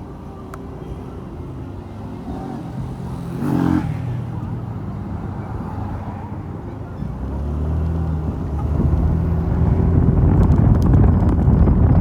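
Mondial Fury motorcycle engine running under way with wind on the microphone. A brief whoosh comes about three and a half seconds in, and from about seven seconds the engine grows louder as the bike accelerates.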